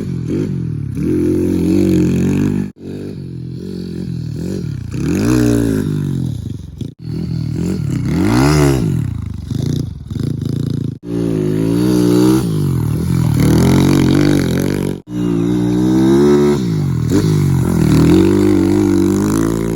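Kawasaki KLX110 big-bore pit bike's single-cylinder four-stroke revving up and down over and over as it is ridden through a set of jumps. The sound breaks off abruptly several times.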